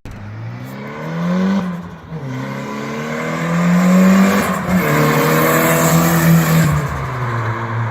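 Toyota Glanza V's turbocharged 1.3-litre four-cylinder, fitted with a CT9 hybrid turbo and a screamer pipe, accelerating hard on low boost. The engine note climbs in pitch, then drops at a shift about two seconds in, again a little past halfway, and again near the end. A hiss rides over the third pull.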